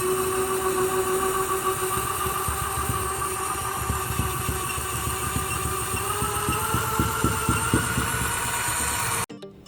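A small electric motor in a toy running loudly with a steady whine over a rough rattle; the whine rises in pitch after about six seconds, then the sound cuts off suddenly, and soft music begins.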